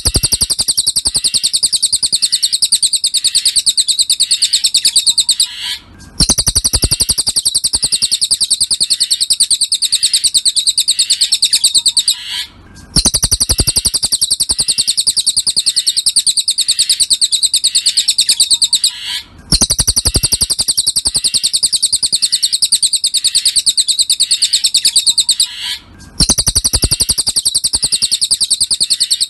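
Cililin bird song from a masteran (song-tutoring) recording: long, rapid trills of high chattering notes, each phrase lasting about six seconds, broken by short pauses that repeat at an even spacing of about six and a half seconds.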